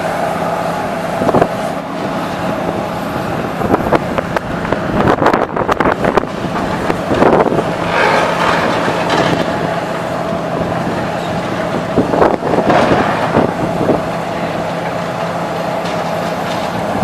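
Demolition machinery running steadily with a constant engine hum, with irregular bouts of crunching and clattering debris, heaviest about five to eight seconds in and again near twelve seconds.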